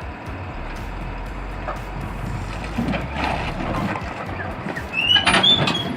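Steady engine noise of a heavy vehicle or machine, with a few short high chirps and louder knocks near the end.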